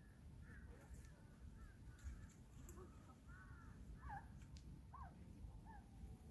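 Faint bird calls: a scattered series of short, arched calls, a dozen or so across a few seconds, over a low rumble.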